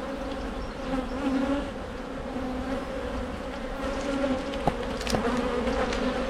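A mass of honeybees buzzing around an open hive, a steady hum whose pitch wavers slightly, with a couple of faint clicks about two-thirds of the way through.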